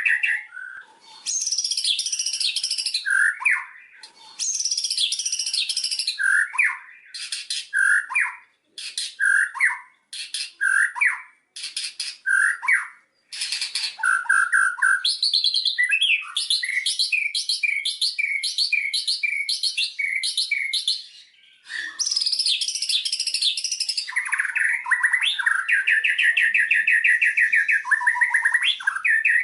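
White-rumped shama (murai batu) singing a long, varied song. It mixes rich whistled phrases with bursts of high chattering notes, then a fast run of short repeated notes, and a rolling trill near the end.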